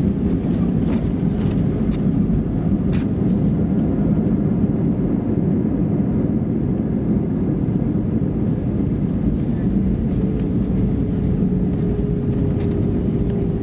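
Airbus A320-214 with CFM56 engines, heard from a window seat inside the cabin: a steady, loud rumble of engines and airflow with a steady hum.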